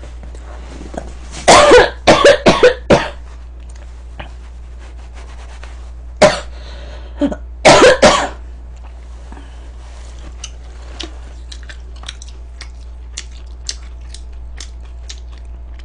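A person coughing hard in short fits: a run of several coughs about a second and a half in, then single bouts around six and eight seconds. Faint small clicks follow in the second half.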